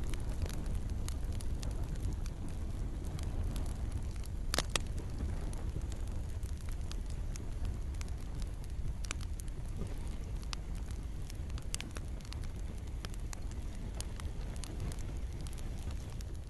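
Campfire crackling over a steady low rumble, with scattered sharp pops and one louder pop a little past four seconds in; light rain may be mixed in.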